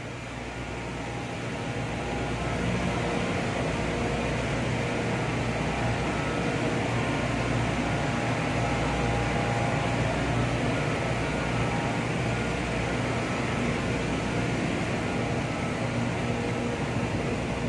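Steady din of a crude oil tanker's engine room: running machinery giving a constant low hum under an even hiss, growing a little louder over the first two seconds.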